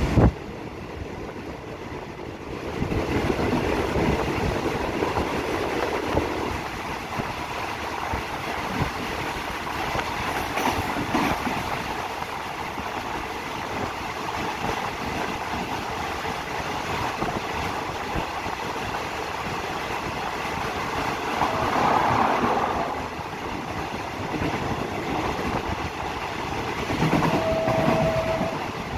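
Passenger train carriage running on the rails, heard at an open window: a steady rumble and rush of air with irregular knocks and clacks of the wheels. Near the end a short, steady high tone sounds for about a second.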